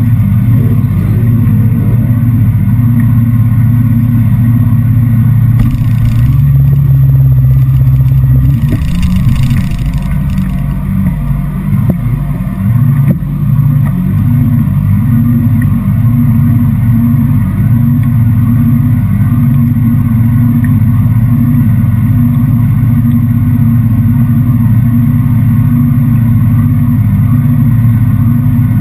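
Sport motorcycle engine running at low revs as the bike creeps forward, then idling steadily at a standstill, loud and close to the microphone.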